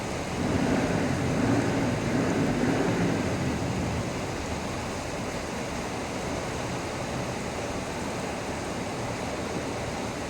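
Heavy rain falling steadily, a constant rushing hiss that is a little louder for the first few seconds.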